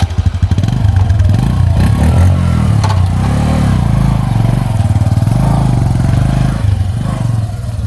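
Motorcycle engine running just after being started, revved up and down a few times, then easing back near the end.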